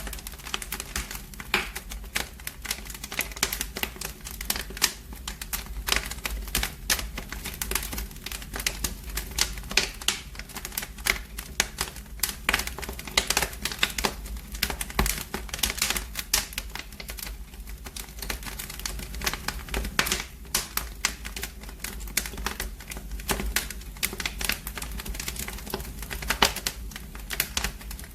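Wood fire in a fireplace crackling: dense, irregular pops and snaps, some louder than others, over a steady low rumble of the flames.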